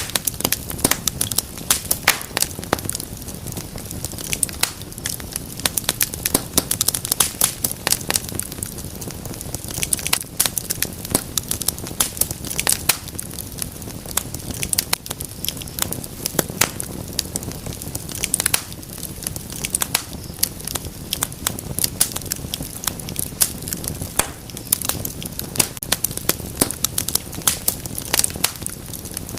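Wood fire crackling in a fireplace: many sharp, irregular pops and snaps over a steady low rumble of burning.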